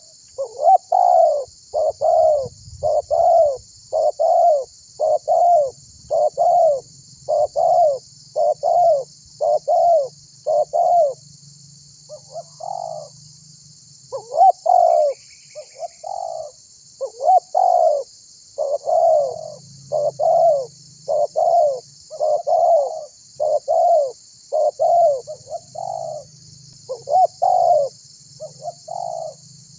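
Spotted dove cooing in a long run of repeated, evenly spaced notes, about one to two a second, with a short break near the middle. A steady faint hiss sits high above the calls.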